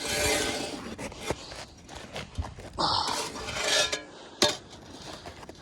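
Footsteps crunching and scraping on ice-crusted snow, with a sharp click about four and a half seconds in.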